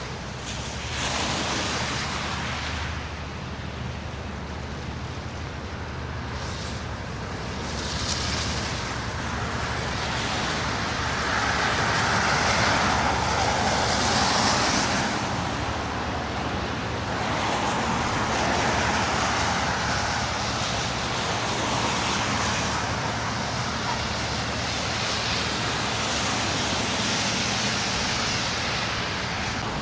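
Street traffic: cars passing one after another, their tyre noise on the road swelling and fading several times.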